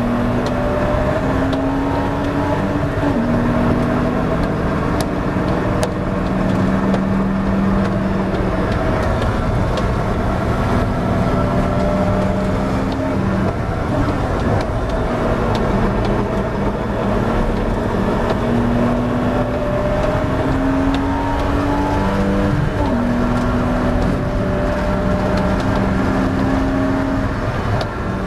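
Porsche 986 Boxster S 3.2-litre flat-six race engine under hard acceleration, heard from inside the cockpit. Its pitch climbs steadily and drops back sharply about three times as it changes gear, over steady tyre and wind noise.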